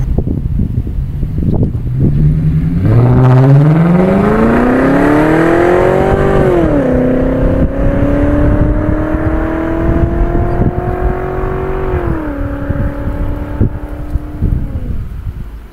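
Volkswagen Passat W8's 4.0-litre W8 engine, mufflers replaced by straight pipes with the stock resonator kept, pulling away under acceleration: the exhaust note climbs steeply in pitch, drops sharply at a gear change about seven seconds in, then climbs again more slowly. Around twelve seconds in the pitch falls once more and holds steady before fading near the end, over a constant low rumble.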